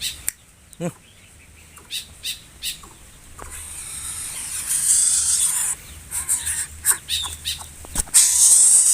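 A short low call from a coucal about a second in, among scattered sharp high chirps or clicks. A loud hissing noise builds in the middle and returns near the end.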